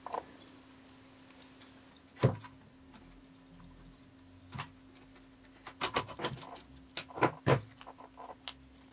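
Scattered sharp clicks and knocks of small hard parts being handled: one about two seconds in, another midway, and a quick cluster near the end. Under them is a faint steady low hum.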